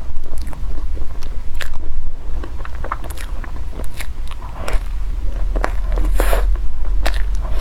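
Close-miked eating: a person biting and chewing food, heard as a run of short sharp clicks, with a longer rustling noise about six seconds in.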